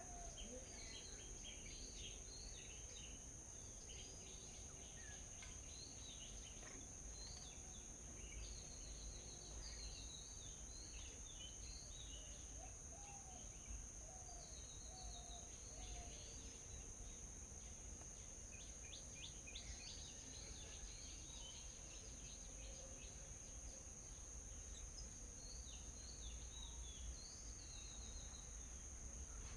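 Several small birds chirping and trilling in short, quick calls, scattered throughout. A steady high-pitched hum and a low rumble run underneath.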